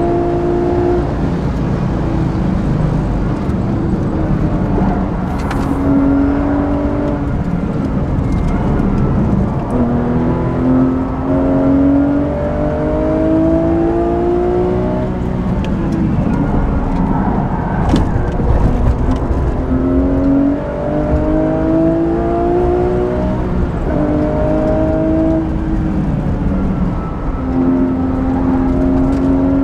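Porsche 997.2 GT3 RS's 3.8-litre flat-six with a Manthey racing exhaust, heard from inside the cabin at speed over road and wind noise. The engine note climbs under acceleration and falls back several times as the car shifts gear and lifts for corners. A couple of sharp knocks stand out above it.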